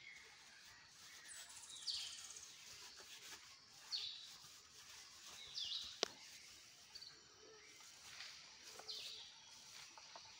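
A bird calling over and over, a short high call that falls in pitch, about once every two seconds. A single sharp click comes about six seconds in.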